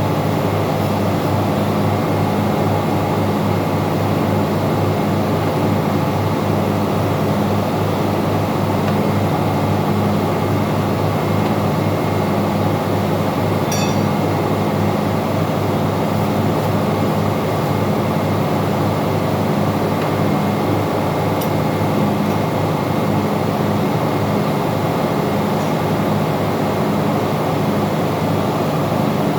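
Engine-room machinery running: a loud, steady, droning hum, with a couple of faint ticks partway through.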